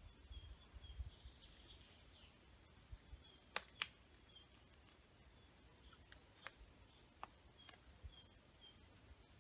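Faint woodland sound: a small bird repeats a high two-note call over and over, alternating a higher and a lower note. A few sharp clicks of twigs being handled and snapped cut in, the loudest two close together about three and a half seconds in.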